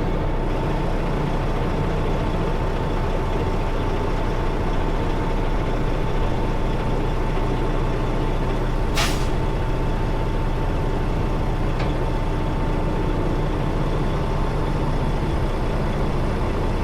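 Semi-truck's diesel engine running steadily, with a steady thin hum over it. About nine seconds in, a short sharp hiss of air, like an air brake or air valve releasing.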